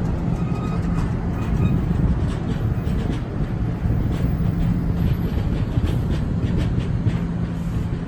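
NJ Transit bi-level passenger coaches rolling past at close range: a steady rumble of wheels on rail, with scattered clicks from the wheels.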